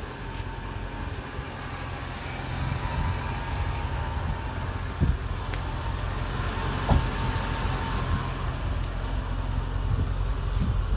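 A car running, heard from inside the cabin: a steady low engine hum that slowly grows louder, with two short knocks about halfway through.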